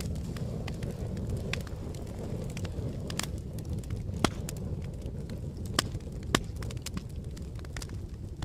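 Campfire burning: a steady low rumble of flames with irregular wood crackles and pops, three sharper snaps standing out in the middle of the stretch.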